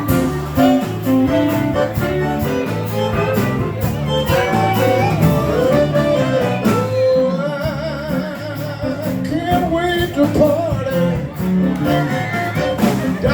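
Zydeco band playing live, with a singer's voice over the band through the latter part.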